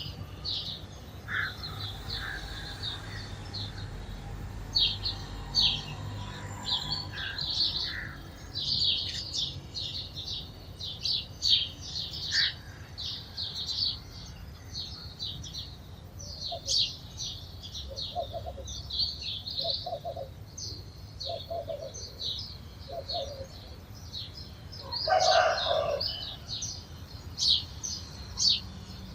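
A flock of sparrows chirping continuously in rapid, overlapping short chirps. A few lower-pitched calls from another bird come through in the middle, and there is one louder call near the end.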